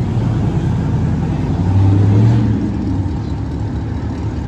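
Truck engine running with a low drone that swells about two seconds in, then eases off.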